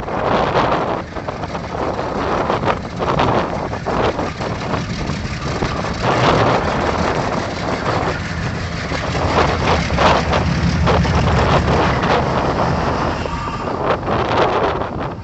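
Freight train passing, a steady low rumble that grows strongest in the middle, with wind buffeting the microphone.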